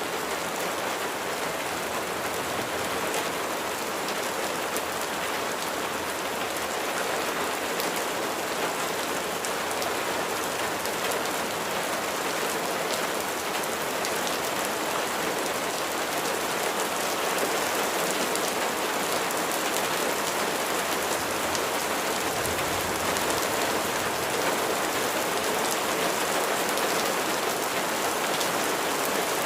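Steady rain falling, with the ticks of individual raindrops hitting a surface.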